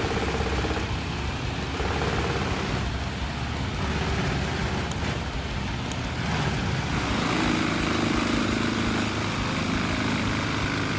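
Large industrial wood chipper running: a steady, heavy mechanical din whose tone drops lower about seven seconds in.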